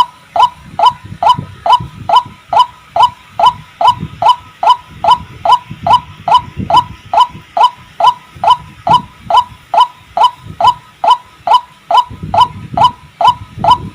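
White-breasted waterhen calling, one short, hoarse note repeated steadily about two and a half times a second.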